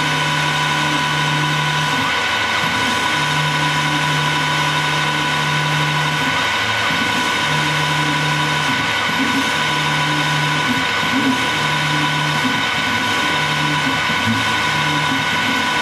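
Harrison T280 lathe, converted to CNC control, running with a steady whine. A low hum comes and goes in stretches of about one to two seconds, getting shorter and more frequent toward the end.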